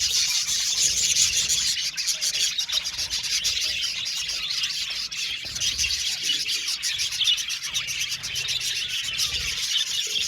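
A colony of budgerigars chattering together: many birds at once making a dense, high-pitched, continuous warbling and chirping.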